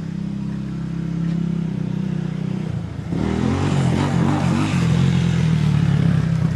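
A vehicle engine runs steadily at a low idle. About three seconds in it gets louder, its pitch wavering, with a rushing hiss added.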